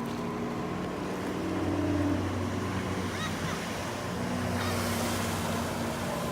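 A motorboat engine running steadily at a moderate level, with water and wind noise underneath.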